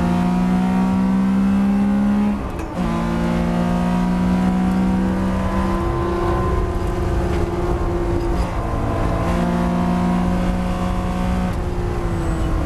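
Air-cooled flat-six engine of a 1975 Porsche 911 2.7 Carrera racing at high revs, climbing in pitch under full throttle with a brief break about two and a half seconds in, like an upshift, and further pitch changes later on.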